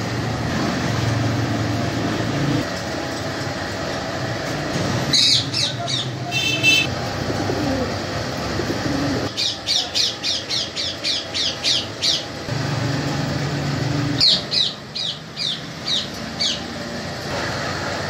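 Shrill bird calls: a couple of single calls, then two quick runs of short sharp calls at about four a second, over a steady low hum.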